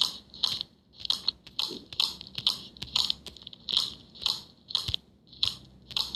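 Crunchy slime-squishing sound effects from a slime-simulator game, repeating about twice a second as the slime is tapped.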